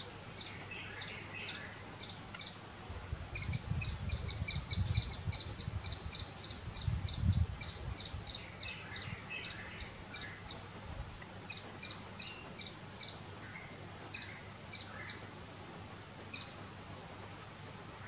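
Small birds chirping: short high notes repeated about three times a second, with lower warbling calls now and then. A low rumble comes and goes from about three to eight seconds in.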